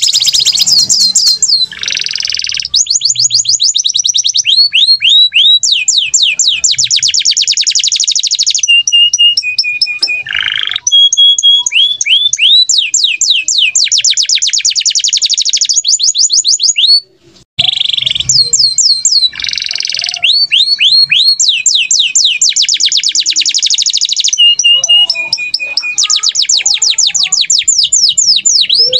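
Caged songbird singing long, fast trills of high downward-sweeping whistled notes, several per second, broken now and then by short harsh chattering bursts, with a brief break about seventeen seconds in.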